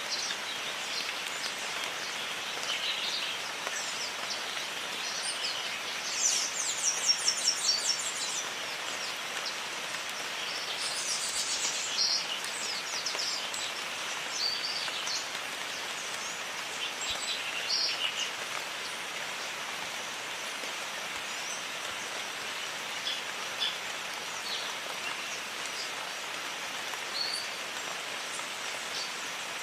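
Steady rain falling in a jungle, with birds calling over it. A rapid run of high chirps about six to eight seconds in is the loudest sound, with another burst of calls around eleven seconds and scattered single chirps throughout.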